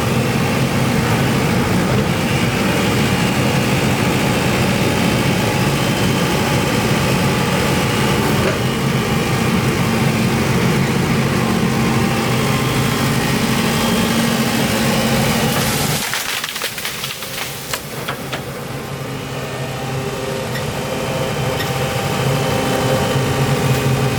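Excavator's diesel engine running steadily; about two-thirds of the way in its sound drops suddenly, with a few knocks, then builds back up over several seconds.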